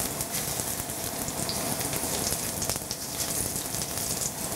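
Thin ginger slices sizzling steadily in hot vegetable oil in a stainless steel wok.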